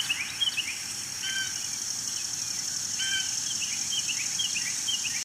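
Birds chirping outdoors: a run of short, quick, falling chirps, with a longer two-note call about a second in and again about three seconds in, over a steady high-pitched hiss. It cuts off suddenly at the end.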